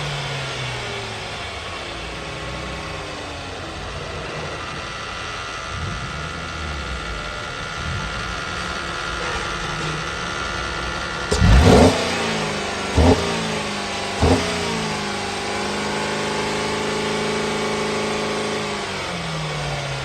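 2012 Buick LaCrosse's 3.6-litre V6 engine settling to idle, then revved sharply three times a little past halfway, about a second apart. It then holds a raised speed for a few seconds and drops back toward idle near the end.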